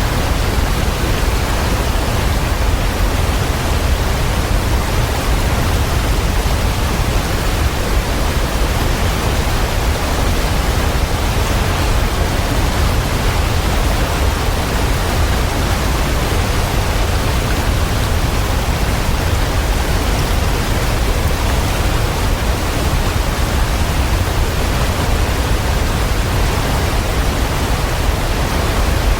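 Waterfall: a steady, dense rush of falling water, full and heavy in the low end, unchanging throughout.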